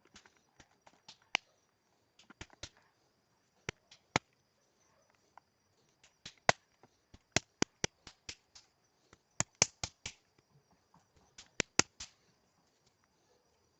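A series of irregular sharp taps and clicks, about two dozen, coming in loose clusters, over a faint steady high whine.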